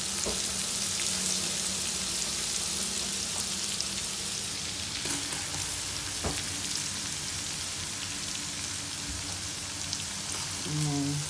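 Chopped garlic and onion frying in hot butter and oil: a steady sizzle, with a couple of light clicks in the middle.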